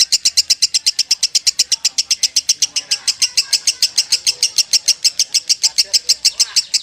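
Lovebird chattering in a long unbroken 'ngekek' (kekean) song: rapid, high chirps at about seven a second, steady and loud throughout.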